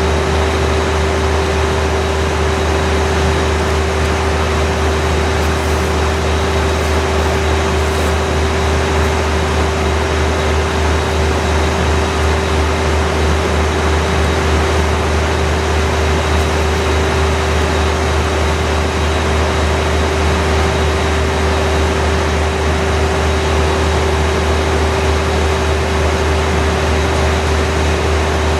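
Train machinery running steadily: a deep, constant hum with a steady whine above it and an even mechanical noise, unchanging throughout.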